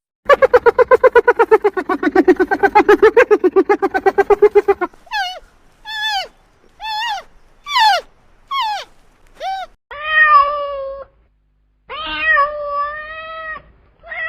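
A loud animal call with fast, even pulsing for about the first five seconds. It is followed by about six short, high cat mews falling in pitch, roughly one a second, and then two longer, steady meows.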